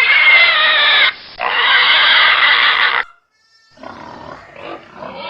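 Domestic pig squealing: two long, loud, high-pitched squeals, one straight after the other. A brief pause follows, then fainter rustling and animal noises near the end.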